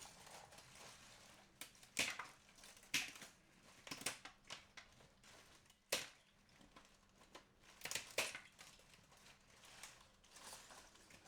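Household items being handled: irregular rustling, crinkling and light knocks, the sharpest about two, three, six and eight seconds in.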